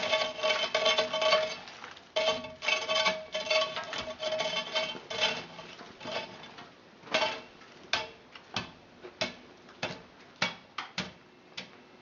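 Rapid metallic rattling and clanking with a ringing tone, breaking up about halfway into scattered separate clicks and knocks.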